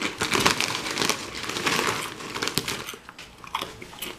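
Potato crisps being crunched and chewed close to the microphone: dense, crackly crunching that thins out about three seconds in.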